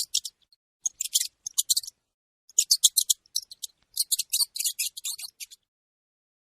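Mouse squeaking: rapid high-pitched squeaks in four quick bursts, several squeaks a second.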